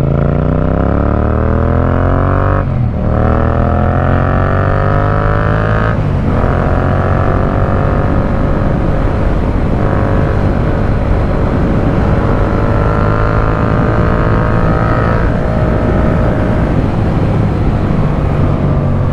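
Yamaha MT-07's 689 cc parallel-twin engine through a full Akrapovic carbon exhaust with the dB killer fitted, accelerating hard. It rises in pitch through the gears with three quick upshifts about 3, 6 and 10 seconds in, then holds a steady cruise with a short surge and a back-off near the end.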